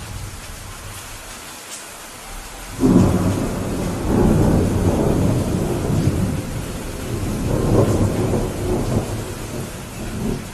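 Steady rain falling, and about three seconds in a sudden low rumble of thunder breaks out and rolls on in swells for several seconds, easing off near the end.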